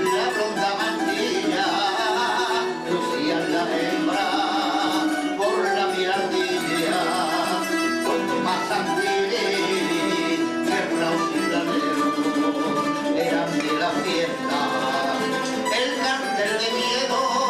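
A Cádiz carnival tango sung by a voice with a wavering vibrato, accompanied by bandurria, laúd and guitar playing plucked chords.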